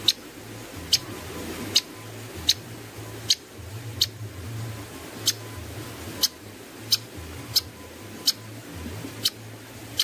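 A bird's short, sharp, high chips repeated at a steady pace, about one every three-quarters of a second, over a faint low background hum.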